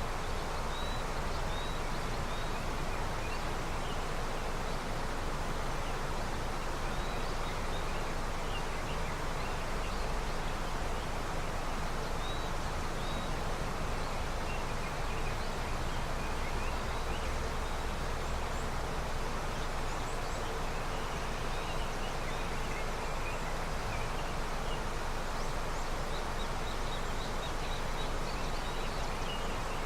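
River flowing steadily with early snowmelt, an even rush of water. Faint, high chirps are scattered over it.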